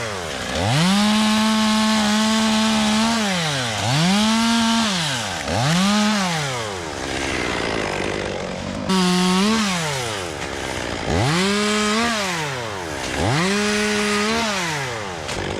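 Chainsaw engine revving up to full speed and dropping back, about six times, each burst held for one to three seconds.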